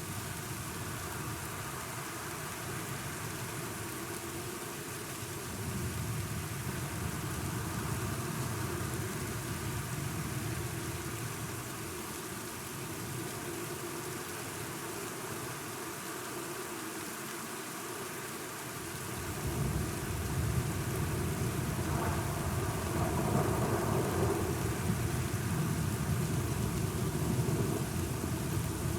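Steady rain with rolling thunder: a low rumble swells about a fifth of the way in, and a longer, louder rumble builds from about two-thirds in and carries on to the end.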